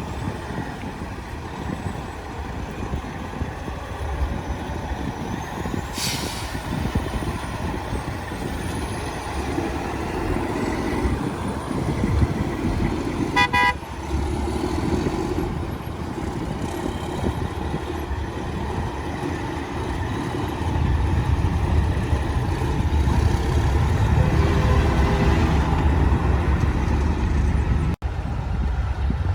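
Semi trucks running, with a short horn toot about halfway through. A truck engine runs louder and steadier over the last third.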